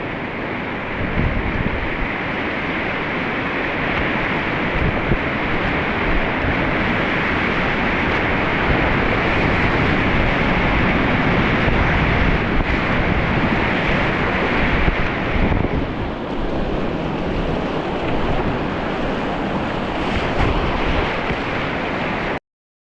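Loud, steady rush of river rapids, with wind buffeting the microphone. The rush eases a little about two-thirds of the way through, and the sound cuts off abruptly near the end.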